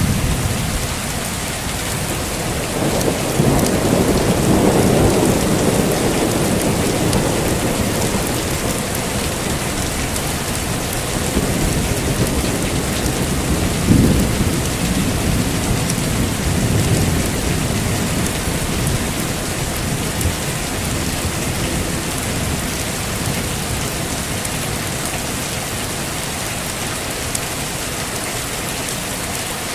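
Heavy rain falling steadily with rolling thunder: a long low rumble swells a few seconds in, and a sharper thunderclap comes about halfway through.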